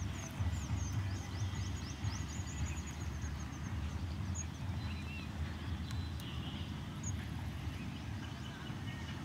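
Open-air ambience with a steady low rumble. During the first three seconds a small bird gives a quick run of short, high, falling chirps, several a second.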